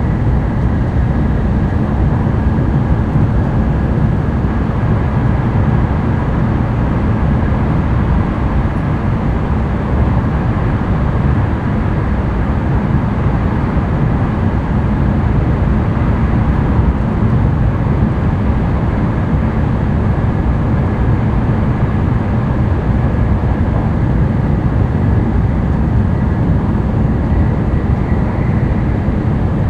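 Running noise of a Tokaido Shinkansen N700-series train at speed, heard inside the passenger cabin: a steady, even rumble and rush of wheels and air with a faint steady whine.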